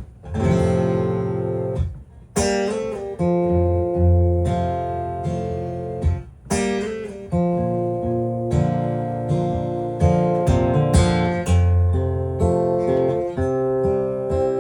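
Acoustic guitar strumming chords, with a couple of brief pauses between strummed phrases.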